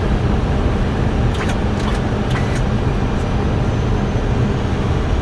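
Steady cockpit noise of an Airbus A320 on approach: a dense low rumble of airflow and engines. A few short clicks come between about one and three seconds in.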